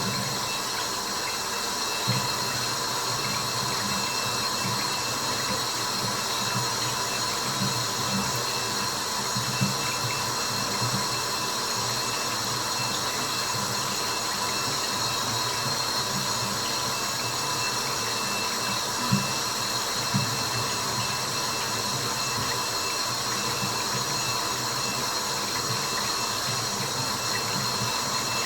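Steady white-noise hiss of running water, with a fluttering low rumble and a few brief louder ticks.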